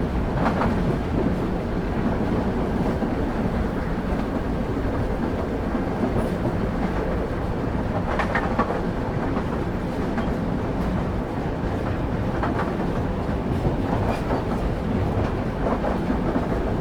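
Railway wheels running on the track, heard on board a moving train: a steady low rumble with small groups of clacks every few seconds as the wheels cross rail joints.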